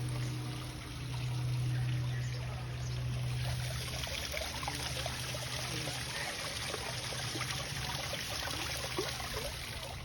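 Water running and trickling, a stream's bubbling, with small splashy gurgles from about four seconds in over a steady low hum.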